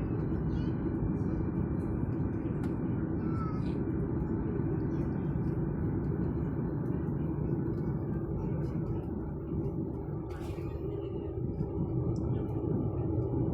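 Steady low rumble of a jet airliner's engines, dipping slightly about ten seconds in and growing louder near the end.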